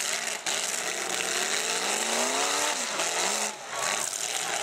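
Demolition derby car engines running hard under a dense hiss, one engine revving up and back down about two seconds in.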